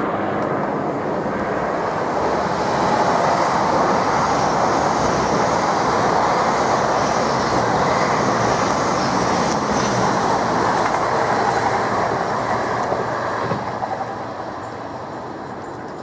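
GWR Class 802 bi-mode intercity train running through the station on diesel power: a loud steady rumble of engines and wheels with rail clatter. It falls away near the end.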